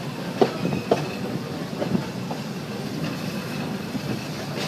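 Walt Disney World Railroad steam train rolling along the track, heard from aboard a passenger car, with steady running noise from the wheels. Sharp clacks come over rail joints, three of them in the first two seconds.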